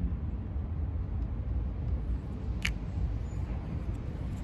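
Steady low background rumble, with one sharp click about two and a half seconds in as the plastic opener cap of a ramune marble-soda bottle is handled.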